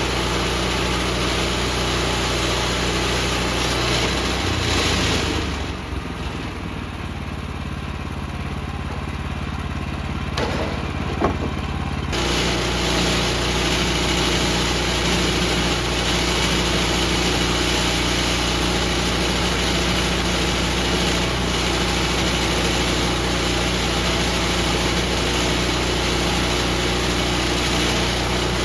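Gasoline engine of a Woodland Mills HM126 portable band sawmill running steadily. From about five to twelve seconds in, the sound drops and changes, with a sharp click near eleven seconds. Then the steady engine sound returns abruptly.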